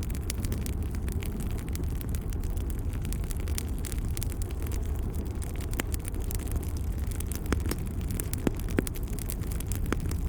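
Wood fire burning in a fireplace: a steady low rumble of the flames with constant small crackles, and a few louder sharp pops in the second half.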